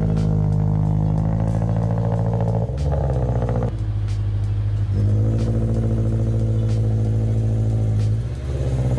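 Subaru BRZ's flat-four boxer engine idling steadily, its tone shifting briefly a few times.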